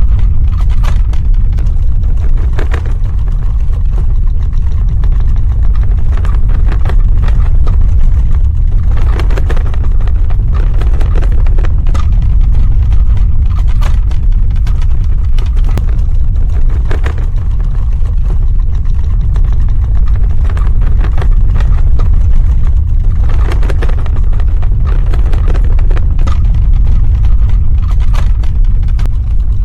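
Earthquake sound effect: a loud, deep rumble that never lets up, with scattered short crackles and cracks over it.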